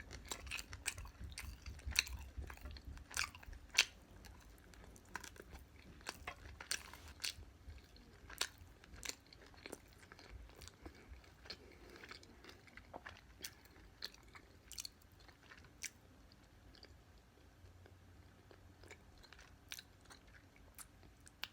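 Close-up chewing and biting of crispy fried chicken: crunchy crackles and wet mouth clicks, frequent for the first half and thinning out toward the end.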